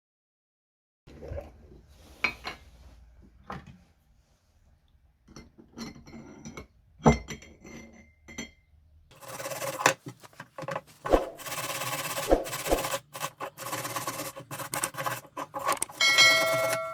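Workshop handling sounds: scattered clinks and knocks of tools and parts being set down, then from about nine seconds in a dense, continuous scraping and rubbing with knocks mixed in, ending in a brief ringing tone.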